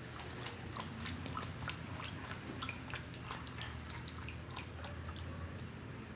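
A dog chewing and gnawing, with many small irregular clicks and crunches over a steady low hum.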